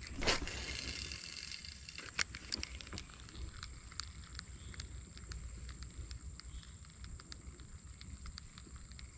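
A cast with a mini pen rod and spinning reel: a sudden swish just after the start, then line hissing off the spool for about a second and a half, followed by scattered light clicks of the reel during the retrieve.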